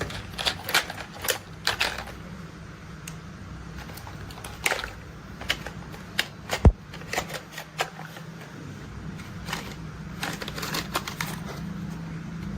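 Irregular sharp clicks and clacks of hard plastic toy construction vehicles being handled and moved, the loudest a single knock about two-thirds of the way in, over a low steady hum.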